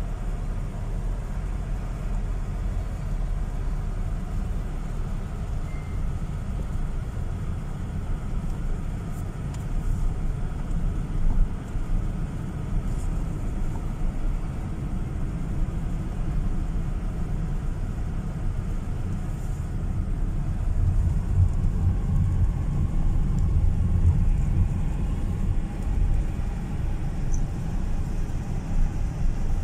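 Car driving along a gravel road: a steady low rumble of engine and tyres on gravel, growing louder about two-thirds of the way through.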